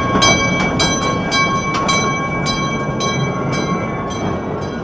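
Mine-ride train cars rolling along their track with a regular clatter of wheel clicks, under a steady high ringing tone that fades out near the end.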